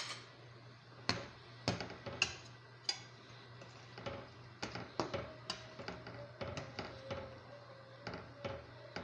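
Irregular light taps and clicks, about one or two a second, from a pot of kofta in yogurt sauce on the stove.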